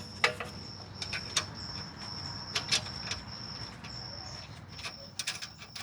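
Scattered light clicks and taps of metal suspension parts being handled as a bolt is started slowly by hand, taking care not to cross-thread it. A steady high, thin tone runs underneath.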